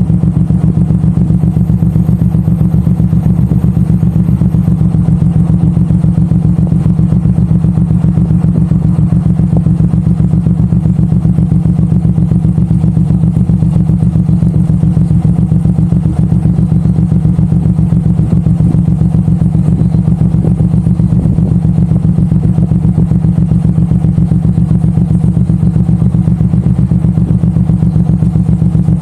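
Suzuki Boulevard M109R's big V-twin engine running steadily on the move, a continuous low, even pulsing note with no change in revs.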